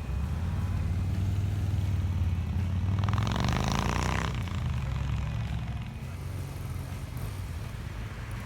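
Motorcycle engines running with a steady low rumble. About three seconds in, a brighter, louder sound rises and falls for about a second.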